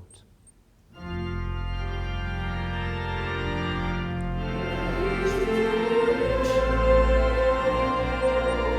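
Church organ starts playing sustained chords about a second in. A deep bass note joins past the middle and the music grows louder.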